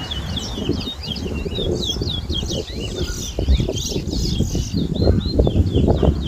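Caged towa-towa (chestnut-bellied seed finch) singing a rapid, unbroken run of quick whistled notes during a timed song competition. A loud low rumble with scattered knocks lies underneath.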